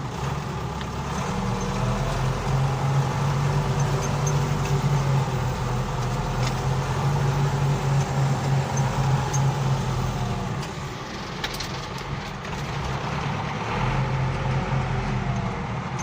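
Front-end loader's diesel engine running, louder for several seconds, easing about ten seconds in, then picking up again near the end.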